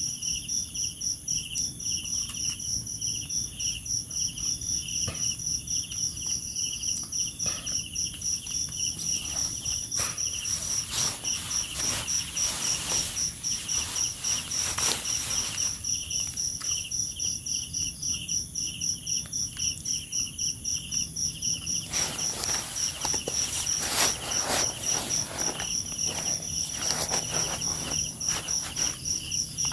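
Night-time crickets chirping in a steady, rapid pulsing rhythm, with a second, higher insect trill above. Scattered rustling noises come and go around the middle and again later on.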